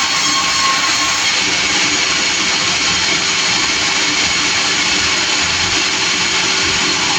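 Sawmill machinery running steadily, a loud, even noise with no breaks.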